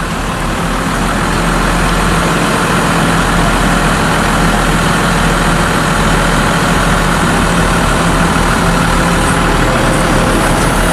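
Heavy diesel engine of farm machinery running steadily and loudly, rising a little in level over the first second or two.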